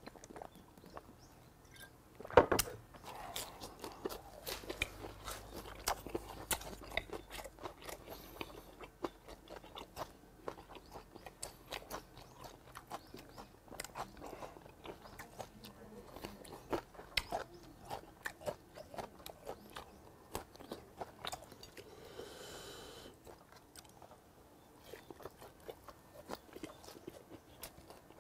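Close-miked chewing and biting of grilled hagfish and greens: a steady run of small wet, crunchy clicks from the mouth. There is one much louder sharp knock about two seconds in.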